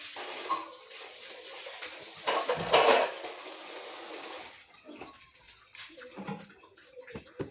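Running water, with a louder splash about two and a half seconds in. The water stops a little after halfway, leaving a few light clinks like dishes.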